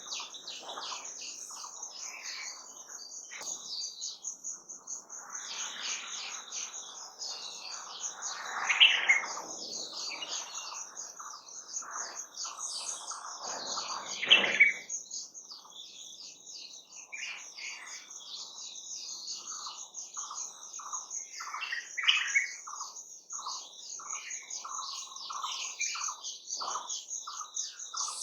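Several wild birds singing and calling, with a steady, fast, high-pitched pulsing trill underneath throughout. Louder chirps stand out about a third and halfway in, and a run of short, evenly repeated notes fills the last third.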